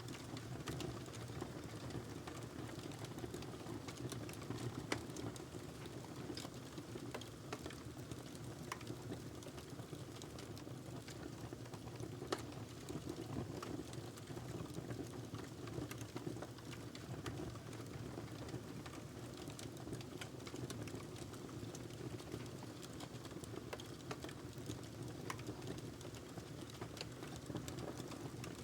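Wood fire burning in a fireplace: a steady low rush of flame with irregular crackles and pops throughout, a couple of sharper pops standing out about five and twelve seconds in.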